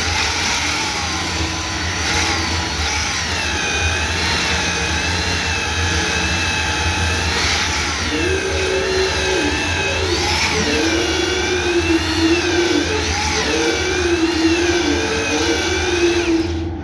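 A motor running continuously, its pitch wavering up and down, with a stronger lower whine joining about halfway through; the sound drops off abruptly at the end.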